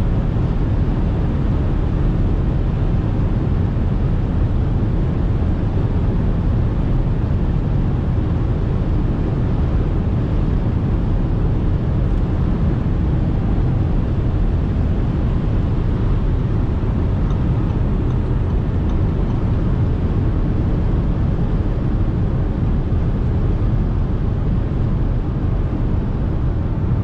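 Audi SQ5 3.0 TDI V6 diesel driving at a steady speed: a constant low rumble of engine, tyres and wind, with no revving or gear changes.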